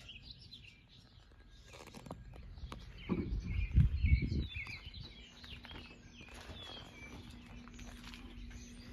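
Small birds chirping and twittering throughout. About three seconds in, a loud low rumble with a few thumps lasts for over a second. A faint steady low hum starts about halfway through.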